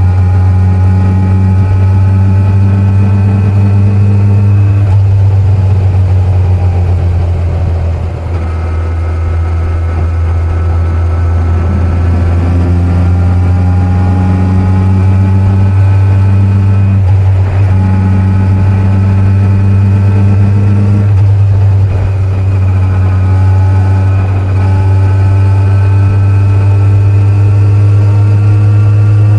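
Kawasaki Z900 inline-four motorcycle engine running under way. The steady engine note changes pitch several times, with a brief dip in loudness about eight seconds in where the throttle eases off.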